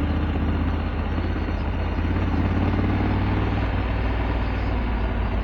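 2022 Honda Africa Twin's parallel-twin engine running steadily at low revs, with no rise or fall in pitch.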